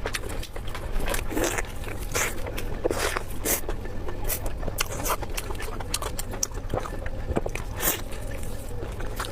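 Close-miked mouth sounds of eating: wet chewing and frequent sharp lip smacks and clicks, coming irregularly several times a second.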